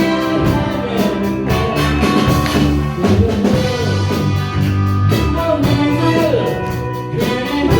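Live band playing a pop-rock song, with drum kit, bass and electric guitar over a steady beat.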